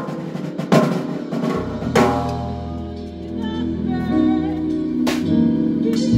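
Live band music: a drum kit playing accented hits with about four cymbal crashes, over sustained bass guitar notes and held chords.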